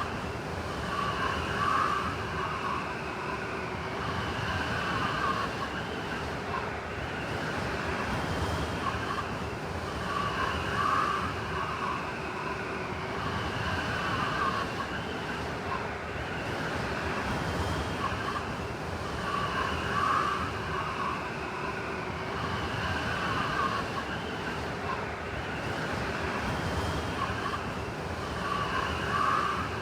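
Blizzard wind howling: a steady rushing noise with whistling gusts that swell and ease about every nine seconds.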